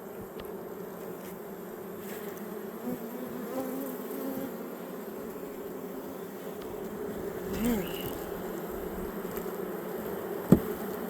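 Honeybees buzzing around an open hive: a steady hum, with single bees flying close past so the pitch swells and falls. A sharp knock comes near the end.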